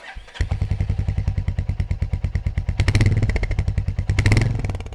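Motorcycle engine running with a fast, even train of exhaust pulses, swelling louder twice as the throttle is blipped, about three seconds in and again near the end.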